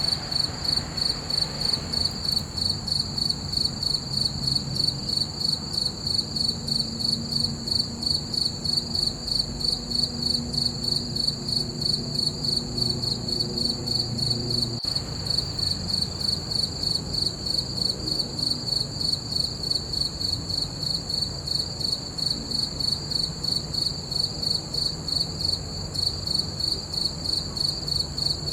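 Crickets chirping steadily at night: a high, even trill pulsing about three times a second, unbroken.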